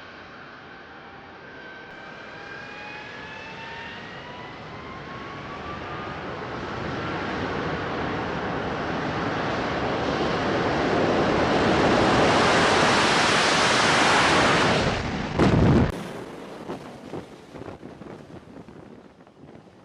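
Jet engine of an AV-8B Harrier II (Rolls-Royce Pegasus turbofan) building steadily in loudness, its turbine whine rising in pitch, until it cuts off abruptly about three-quarters of the way through, leaving wind and sea noise on the microphone.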